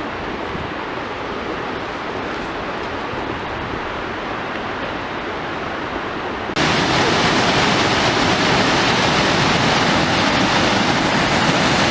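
Steady rushing noise with no speech; about halfway through it cuts suddenly to a louder, hissier rush.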